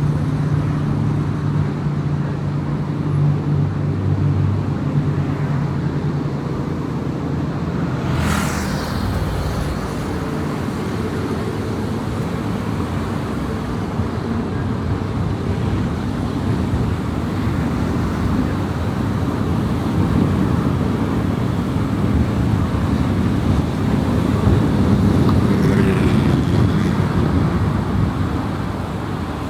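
Car driving at highway speed: steady road and tyre rumble with engine hum. A brief rush of noise comes about eight seconds in, and a fainter one near the end.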